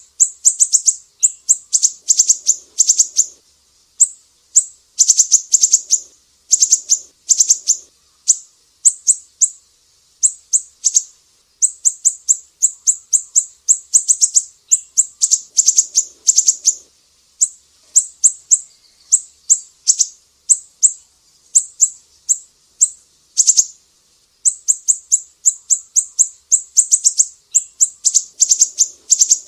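Sumatran siri-siri songbird singing: rapid series of high, sharp chips, fired in bursts of a second or two with short pauses between them.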